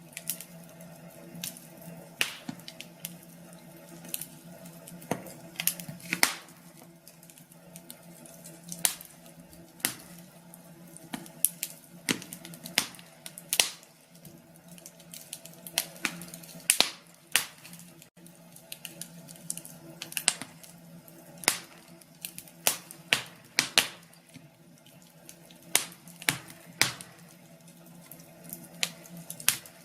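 Wood fire crackling in a fireplace: irregular sharp pops and snaps, sometimes seconds apart and sometimes several in quick succession, over a faint low steady hum.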